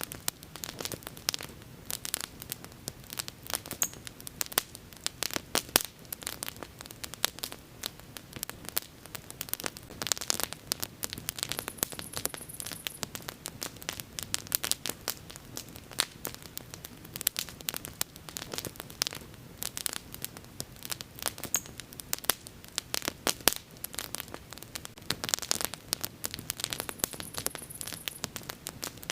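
Bonfire crackling: a steady run of irregular snaps and pops over a soft background hiss of burning, with a few sharper, louder pops scattered through.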